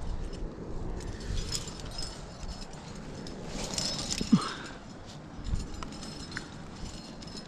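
Metal climbing hardware (carabiners and gear on a harness) clinking and jangling amid rustling of clothing and handling, with a denser burst of scraping and clinks about halfway through.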